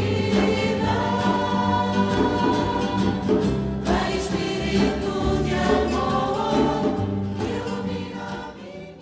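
Choral sacred music, a choir singing sustained lines, fading out near the end.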